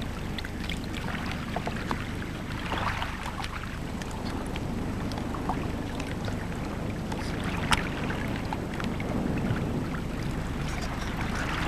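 Shallow water lapping at the shoreline: a steady low rumble with scattered small splashes and clicks.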